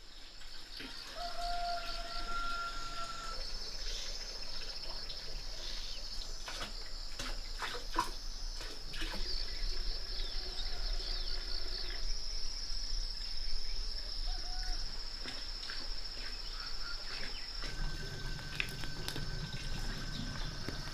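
Outdoor nature ambience: a steady high insect drone with bird calls and scattered clicks and taps.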